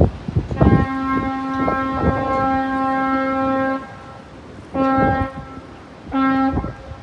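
Horn of the freighter Fraserborg sounding one long blast of about three seconds, then two short blasts, each one steady deep tone. Wind buffets the microphone throughout.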